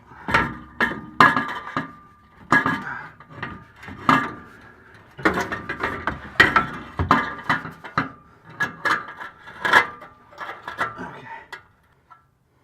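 Steel exhaust pipe and muffler clanking and knocking irregularly against each other and the car's underside as they are worked up into the exhaust hangers, each knock ringing briefly.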